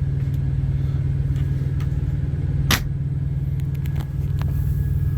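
Kenworth T680's PACCAR MX-13 diesel engine idling steadily, a low even rumble heard inside the cab. A single sharp click comes a little past halfway.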